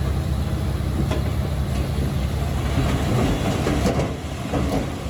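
Komatsu D21P crawler bulldozer working: a steady diesel engine hum with the clank and rattle of steel tracks, and a burst of heavier clanking and scraping about three to four seconds in.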